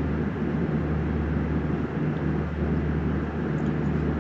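Steady engine and airflow drone inside an aircraft cabin, with a constant low hum under it and no change in pitch.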